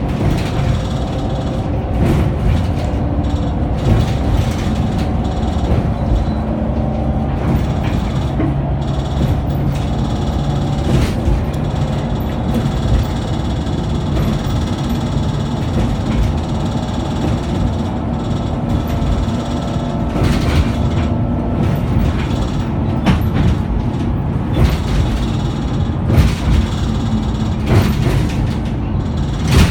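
Scania K94UB bus under way: its engine and drivetrain run steadily, with a few slowly drifting whining tones, under frequent rattles and knocks from the bus body.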